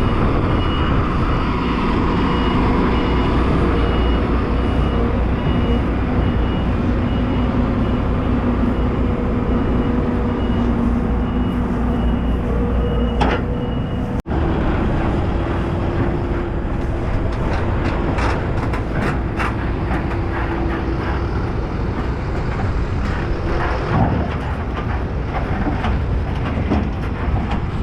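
Tractor and baler running steadily at work in the field, a high evenly pulsed beep repeating over the machinery for the first half. About halfway the sound cuts abruptly to a similar steady machinery drone with frequent ticks and rattles.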